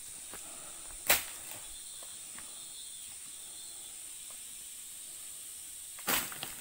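Two sharp knocks, a loud one about a second in and another near the end, over a steady high hiss like insects buzzing.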